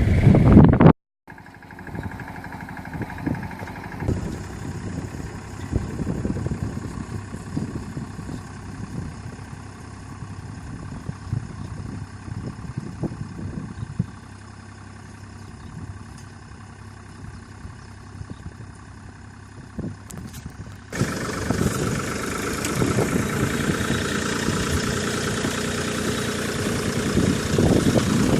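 Tractor engine running steadily, most likely pulling a mulch-paper laying machine. The sound cuts out briefly about a second in and becomes louder about two-thirds of the way through.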